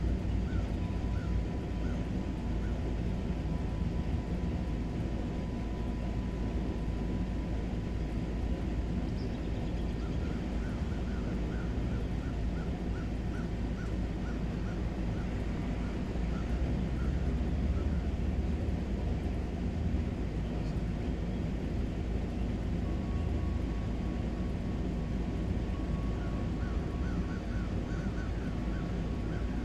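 Outdoor ambience: a steady low rumbling noise, with runs of short, evenly repeated chirping calls, about two or three a second, near the start, in the middle and near the end.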